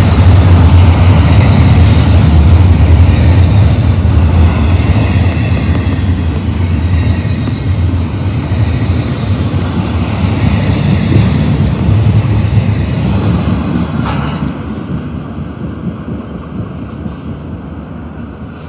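BNSF double-stack intermodal train's well cars rumbling and clattering past on the rails, the noise fading steadily over the last few seconds as the final car goes by and moves away.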